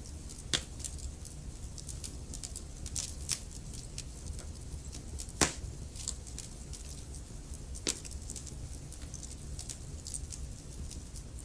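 Wood fire burning in a fireplace: a steady low rumble of flames with frequent sharp crackles and pops from the logs, the loudest pops about half a second, five and a half and eight seconds in.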